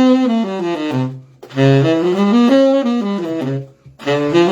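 Saxophone playing minor pentatonic scale runs up and back down, each run moved up chromatically to the next key, with short breaks for breath between runs.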